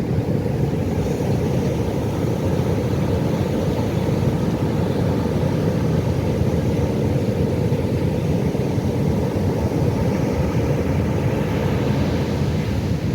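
Pacific Ocean surf: a steady low rumble of breaking waves, with a little more hiss of washing water near the end.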